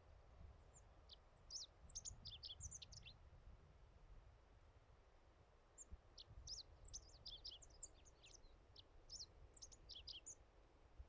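Faint high-pitched chirping of a small bird, in two bouts of quick twittering notes: a short bout about a second in and a longer one from about six seconds to ten.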